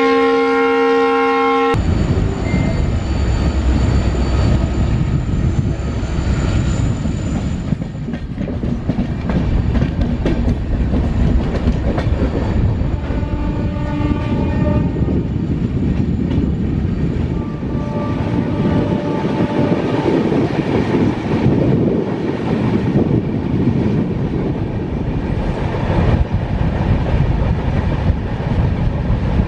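A train horn sounds a steady chord of several tones and stops sharply about two seconds in. After that comes the continuous rumble and rattle of a passenger train running on the track.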